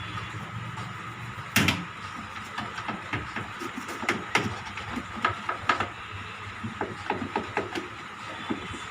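Handling and cleaning noises on a washing machine's top: one sharp knock about a second and a half in, then scattered light clicks and taps as things are moved and wiped.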